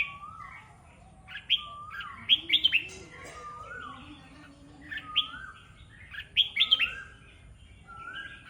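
Red-whiskered bulbul singing: short phrases of quick high chirps, each ending in a lower slurred whistle, repeated about four times with brief pauses between.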